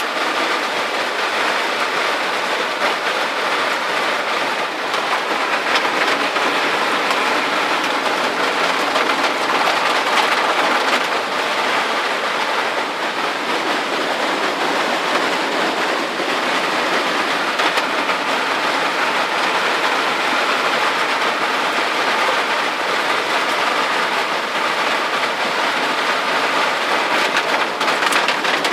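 Heavy rain falling steadily, an even hiss of water with no let-up.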